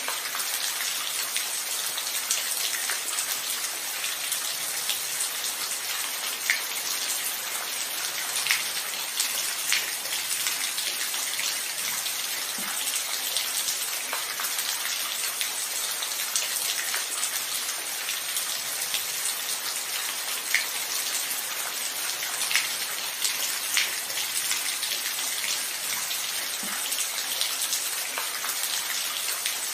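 Steady rainfall: an even hiss of rain with close individual drops ticking now and then on a surface. No thunder.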